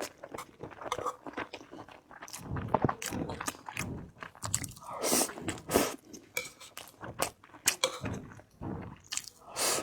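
Close-miked eating sounds: a person biting and chewing food, with irregular wet mouth clicks and smacks.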